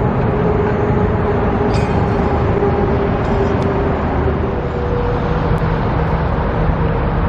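Steady vehicle noise: a continuous low rumble with a faint engine hum, typical of a car in motion.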